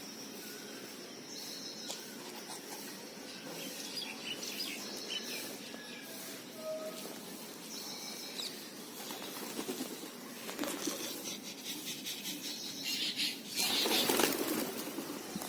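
Small birds chirping in short repeated phrases over a steady outdoor background hiss. Near the end a louder burst of noise covers the birds for a second or two.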